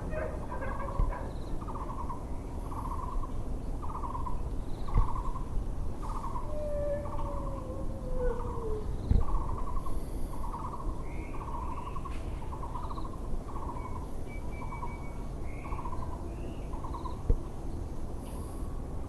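Muller's barbet (Taiwan barbet) calling: a low, pulsed note repeated about once a second. Smaller bird chirps sound above it over a steady background hum, and a long falling tone slides down about seven to nine seconds in.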